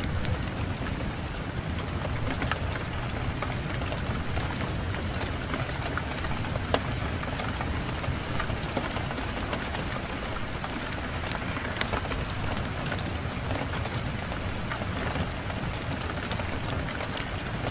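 Fireplace fire crackling, with scattered sharp pops and snaps, over a steady low rumble of wind.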